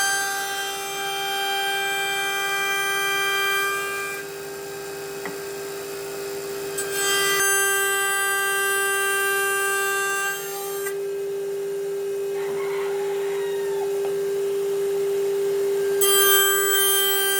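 Electric woodworking power tool running with a steady high whine while working wood, its sound changing abruptly a few times.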